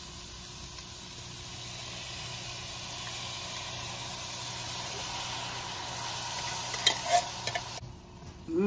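Chopped onion and cilantro sautéing in a pot, a steady sizzle, while canned diced tomatoes with green chilies are poured in. Near the end a few sharp clicks of a spatula scraping the can, then the sizzle drops away abruptly.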